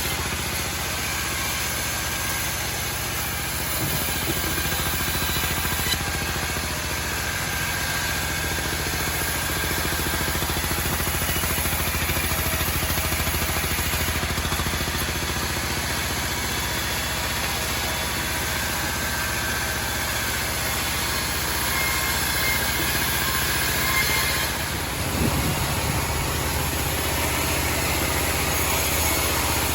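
Homemade band sawmill running steadily, its engine drone continuous, with a brief change in the sound about 25 seconds in.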